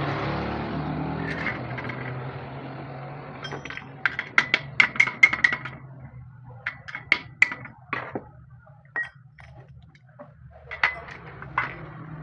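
Metal tools and parts clinking and tapping against each other: a quick run of about eight sharp ringing strikes about four seconds in, then scattered single clinks, over a steady low hum. A rushing noise fades away at the start.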